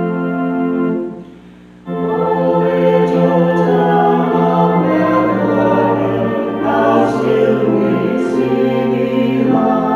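An organ holds a chord that dies away about a second in. Just before two seconds in, a choir begins singing a hymn with organ accompaniment.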